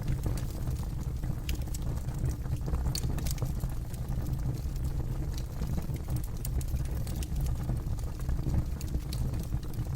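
Campfire burning with a steady low rumble of flames and scattered sharp crackles and pops of burning wood.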